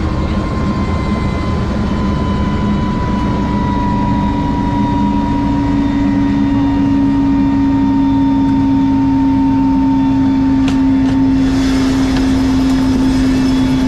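Tour helicopter running with a steady loud drone and a whine that drifts slowly lower in pitch.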